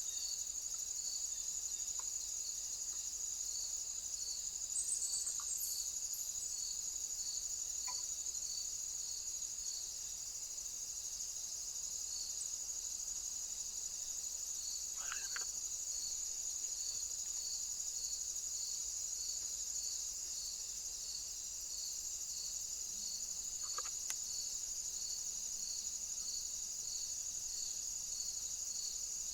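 Crickets singing: a steady high trill with a separate high chirp repeating about once a second. A few faint short sounds come through, one about halfway and one later.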